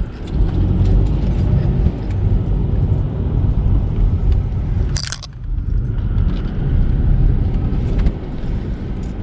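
Car driving slowly, heard from inside the cabin: a steady low engine and road rumble, with a short sharp noise about five seconds in.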